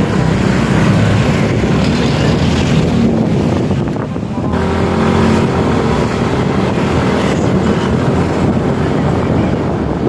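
Wind rushing over the microphone on a moving motorcycle, with the engine and road noise underneath.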